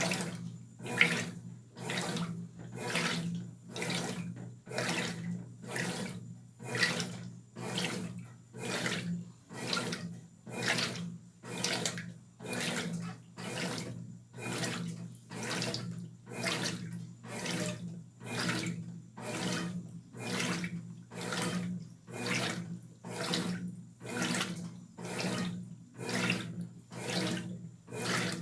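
Brastemp Tira Manchas Pro 12 kg top-loading washing machine agitating a load of clothes in water: a swish of water about once a second as the wash action reverses back and forth, over the steady hum of the motor.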